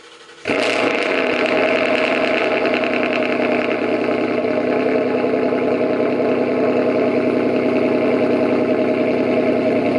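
2019 Ford Mustang GT's 5.0-litre V8 cold-starting: after brief cranking it catches about half a second in with a sudden jump in loudness, then settles into a steady idle. The exhaust note comes through bored-out mufflers and straight pipes with the catalytic converters still fitted.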